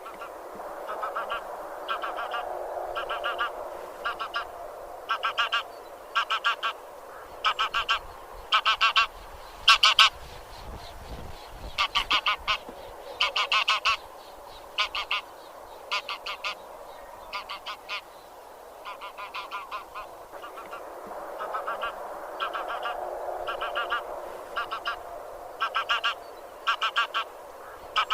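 A flock of grey geese (genus Anser) honking: short, rapid cackling calls in clusters about every second, over a softer continuous murmur of more geese.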